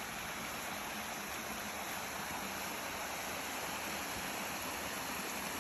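Creek water running over rocks: a steady rushing splash.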